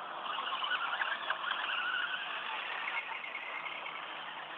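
Motor vehicle engines running, a steady noisy din.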